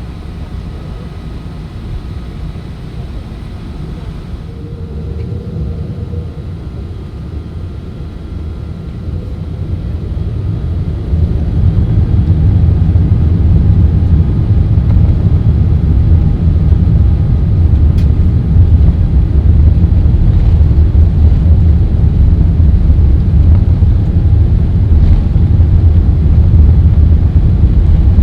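Airbus A380 cabin noise: a low rumble from the airliner that builds and then jumps sharply louder about eleven seconds in, staying loud afterwards.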